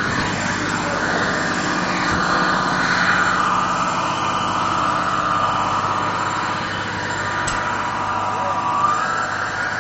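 Fire engine's engine running steadily, with a whine that rises and falls slowly in pitch.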